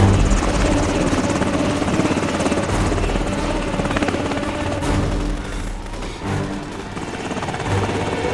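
Helicopter rotor chop, steady and loud throughout: an enemy helicopter arriving overhead.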